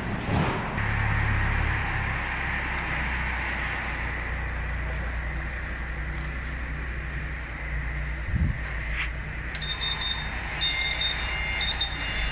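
A steady low machine drone with a hiss, a couple of brief knocks, and a repeating pattern of short high electronic beeps starting a few seconds before the end.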